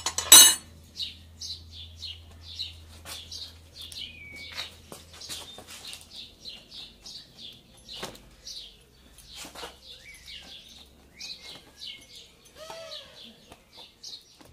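Small birds chirping in quick repeated calls, with a sharp metal clink at the start as a steel tyre lever is picked up, and a few dull knocks later from the tyre work.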